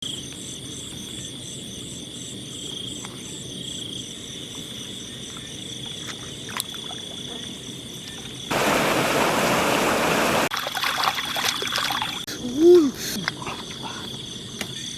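Night insects chirping in a steady, high chorus, with pulsing calls above a constant whine. About two seconds past the middle, a burst of rushing, splashing noise cuts in and stops abruptly. Near the end comes a brief rising-then-falling call, the loudest sound.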